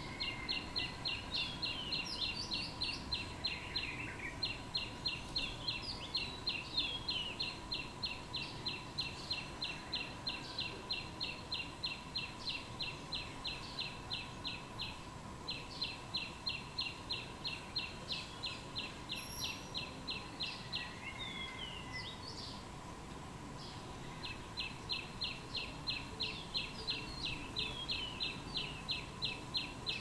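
Small birds calling: one repeats a fast, even run of high notes, about four a second, in long runs with short breaks, while other birds give scattered short chirps.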